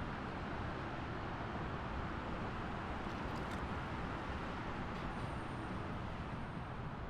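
Steady highway traffic noise: a continuous wash of passing cars and tyres on the road, with no single vehicle standing out. A faint high-pitched tone comes in about five seconds in.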